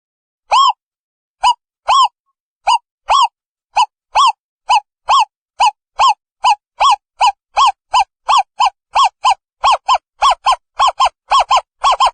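Owl calling: a long series of short hoots, each a brief note that rises and falls in pitch, speeding up steadily from about two a second to nearly four a second toward the end.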